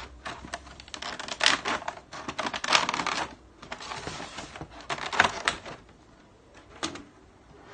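Plastic and cardboard figure packaging being opened and handled: a run of crackles and clicks, busiest in the first five and a half seconds, then quieter with one last click near the end.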